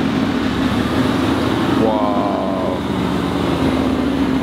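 Mercedes-AMG GT's twin-turbo V8 running steadily at low revs as the car creeps past, with a deep even exhaust note.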